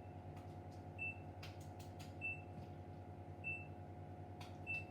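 A short, high electronic beep repeating about every 1.2 seconds, four times, over a steady low hum, with a few faint clicks.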